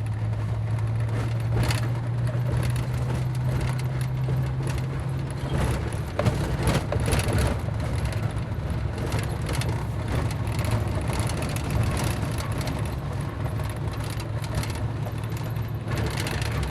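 Vehicle driving over a rough, bumpy road: a steady low engine drone with frequent knocks and rattles. The drone changes about five seconds in.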